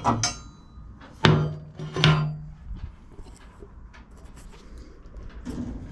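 Hand tools working on a lawn mower's height-adjuster parts: a knock, then two sharp strikes about a second apart, followed by light scattered taps and clicks.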